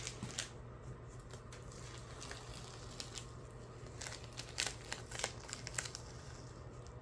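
Faint crinkling and scattered light ticks of a vinyl decal and its paper backing being handled and pressed down, over a low steady hum.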